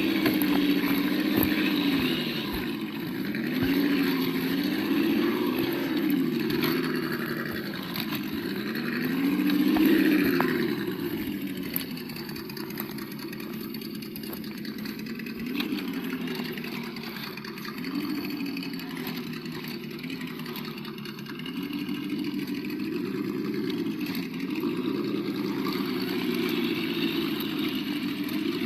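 Sound module of an Absima Yucatan 1:8 RC crawler playing a simulated engine sound. The engine note rises and falls again and again as the throttle is worked.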